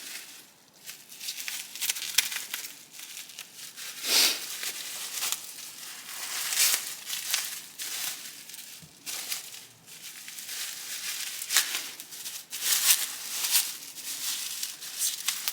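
Packing material crinkling and rustling as polished motorcycle parts are unwrapped from a shipping box, with irregular scrapes and crackles throughout.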